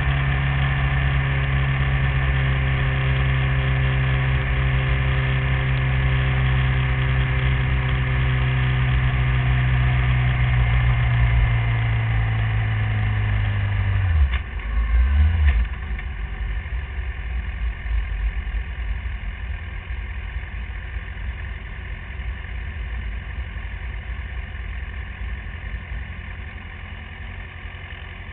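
600 cc sport motorcycle engine running at a steady idle, its note sagging a little, then cutting away abruptly about halfway through, leaving a quieter engine rumble.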